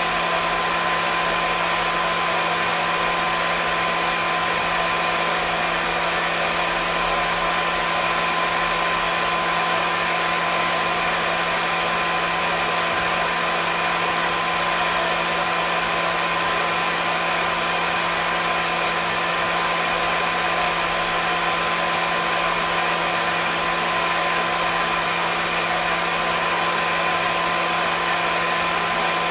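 Hair dryer running continuously at a steady speed: an even rush of blown air with a steady motor hum underneath, unchanging throughout.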